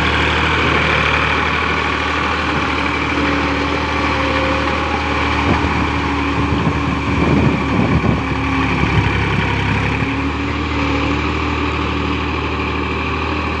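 Case IH JX50T tractor's diesel engine running steadily, with a stretch of knocks and rattles about halfway through.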